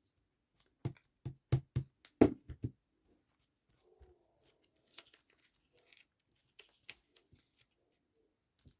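Hands working with paper pieces for a collage: a quick run of about half a dozen taps in the first three seconds, then faint paper rustling.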